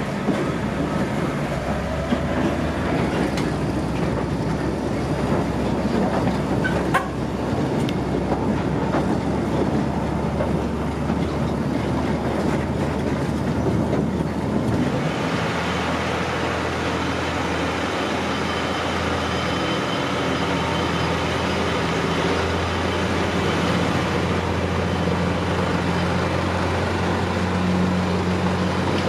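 Narrow-gauge heritage train running, heard from aboard the carriages: its diesel locomotive's engine and the carriages' rumble on the track. About halfway through, the sound changes to a steadier engine drone with a low hum and less rumble.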